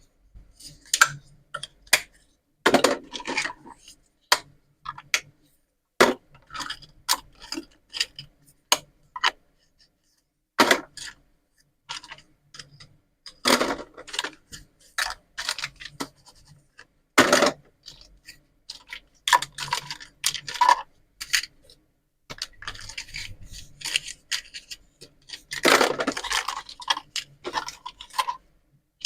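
Plastic toy pizza and vegetable play pieces being handled, making irregular sharp clicks and taps, with a few longer scraping stretches.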